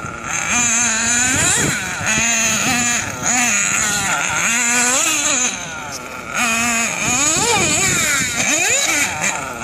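Small engine of a radio-controlled model car running hard, its pitch holding steady and then swooping up and down several times as it revs and passes by.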